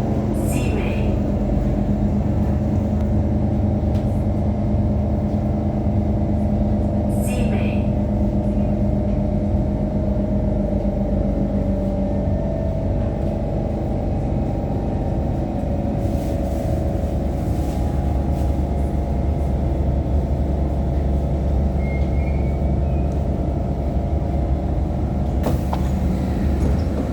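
Extremely loud air-conditioning on a Kawasaki Heavy Industries C151 metro train, a steady drone that almost drowns out the traction motors. The train's low rumble grows heavier in the second half as it pulls into the station.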